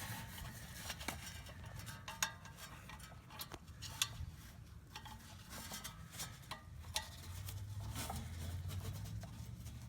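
Faint, scattered clicks and clinks of metal blade-puller parts being handled and fitted together, with a low hum coming in during the last few seconds.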